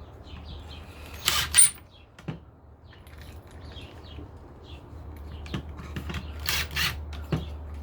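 Small metal screws rattled and shuffled by hand as longer ones are picked out, in two brief clattering bursts about a second in and again near the end, with a few lighter clicks between. Birds chirp faintly in the background over a steady low hum.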